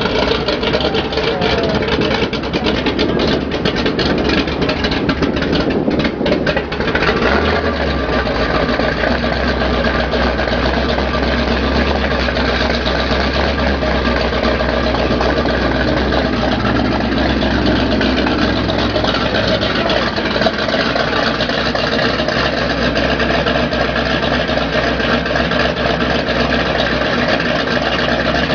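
Supercharged V8 of a custom three-wheeled hot rod running loud at idle; about seven seconds in it settles into a steady low, even engine note.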